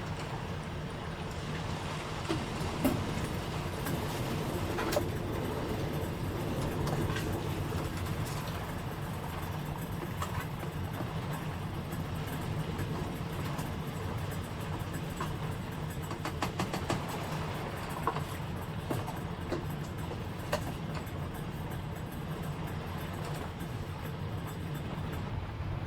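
Typhoon wind and heavy rain on the kei-truck camper: a steady low rumble with scattered sharp ticks and taps, which come thicker for a moment about two-thirds of the way through.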